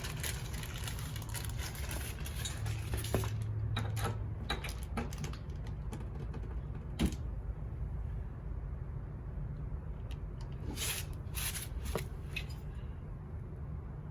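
Scattered light clicks and knocks of hand work on a small engine as parts are taken off its shaft, with two sharper knocks about three and seven seconds in, over a steady low hum.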